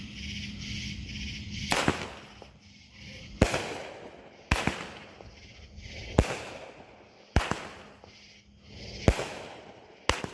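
Consumer fireworks going off: seven sharp bangs at uneven gaps of one to two seconds, each trailing off in a short echo.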